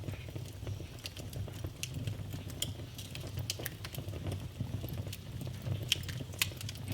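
Wood fire burning in a fireplace: irregular crackles and snaps over a low steady rumble of the flames, with two sharper pops near the end.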